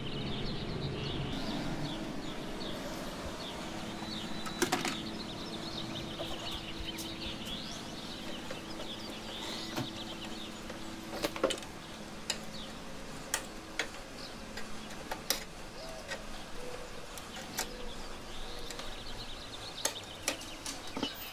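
Scattered sharp metallic clicks and taps as a screwdriver pries spring-steel U-nuts off a bumper's mounting tabs. Birds chirp faintly in the background, and a low steady hum fades out about halfway through.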